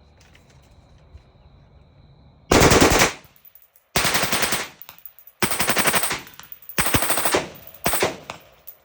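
AR-pattern rifle fired through an Atrius forced-reset selector and trimmed flat-face single-stage trigger: five quick strings of rapid shots, starting about two and a half seconds in, each lasting under a second with short pauses between. The rifle cycles without a malfunction, the forced-reset setup working.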